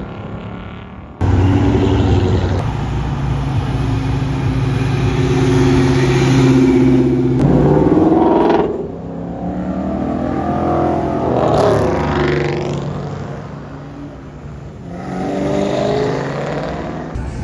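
A performance car engine holds a steady note, then revs and accelerates hard in rising sweeps, about eight and eleven seconds in and again near the end.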